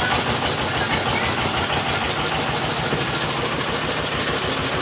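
An engine running steadily, with an even low pulse.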